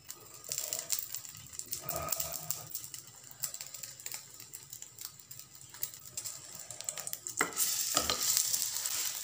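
Keema-stuffed maida pastry shallow-frying in a little oil in a nonstick pan: steady sizzling with fine spitting crackles, growing louder about seven seconds in, with a couple of light knocks near the end.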